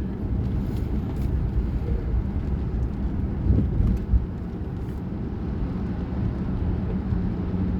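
Steady low rumble of a car driving, heard from inside the cabin, with a few short knocks about three and a half and four seconds in.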